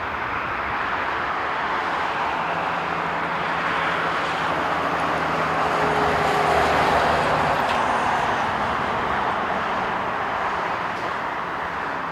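Jet airliner's engines as the aircraft passes, a broad rushing noise with a low steady tone that swells to its loudest about six to seven seconds in and then slowly fades.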